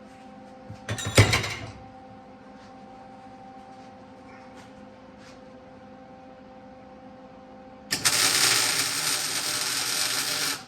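A steady machine hum with a few metal clanks about a second in, then a burst of welding, an even crackling hiss that starts and stops abruptly, lasting under three seconds, as the brake anchor goes onto the springer fork leg.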